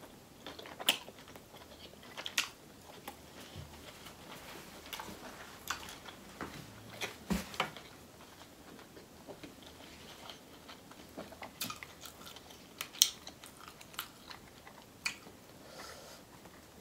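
Close-miked chewing and biting of seafood boil, with wet lip smacks and scattered sharp mouth clicks, a few of them louder.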